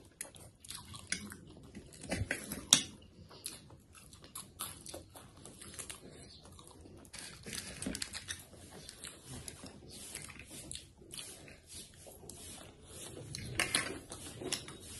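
Close-miked eating sounds: chewing and mouth noises over fried noodles, with scattered light clicks of forks against plates and one sharper click about three seconds in.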